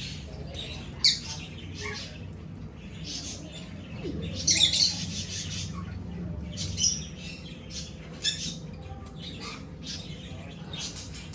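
Parrots squawking: several short, sharp, high calls, the loudest cluster about four and a half seconds in.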